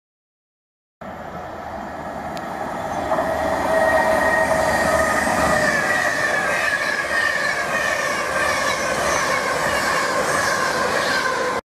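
Class 390 Pendolino electric train running through at speed: a loud rush of wheels on rail with a whine in several tones that slides slowly down in pitch. It builds up after about a second of silence, stays loud, and cuts off abruptly at the end.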